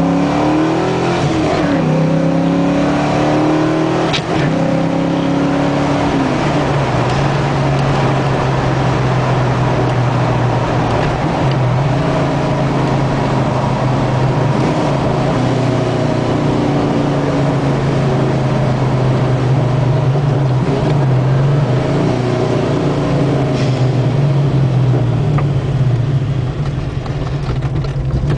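Ford 5.0-litre V8 in a Mercury Capri, heard from inside the cabin, accelerating up through the gears from second to fourth. The engine pitch climbs and drops at upshifts about two and four seconds in, then holds a steadier pitch for the rest.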